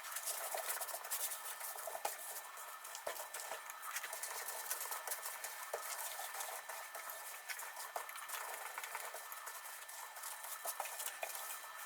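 Faint kitchen food-preparation sounds: many small clicks and clinks of utensils over a steady hiss.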